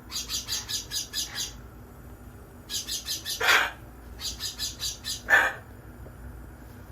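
Parrot calling: runs of rapid high chirps, about six a second, broken by two louder squawks about three and a half and five seconds in.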